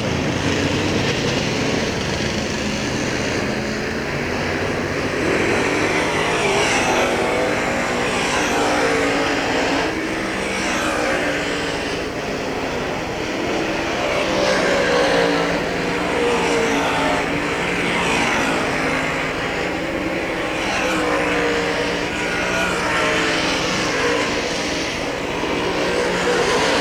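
Several Late Model Sportsman race cars running hot laps together. Their engines rise and fall in pitch as the cars pass and go through the turns, with overlapping swells every couple of seconds.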